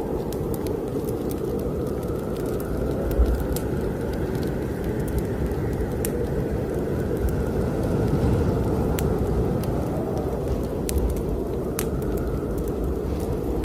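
Wood fire crackling in a fireplace, with scattered sharp pops, over the steady low rush of a snowstorm wind that swells and eases slowly.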